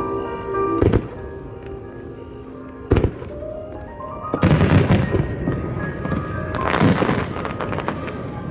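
Starmine fireworks barrage bursting over music: single booms about a second in and at three seconds, then a dense flurry of crackling bursts about four and a half seconds in and another around seven seconds.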